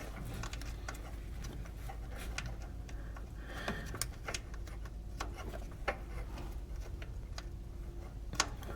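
Light, irregular metallic clicks and ticks from hand tools working a small fastener in the engine bay, over a faint steady low hum.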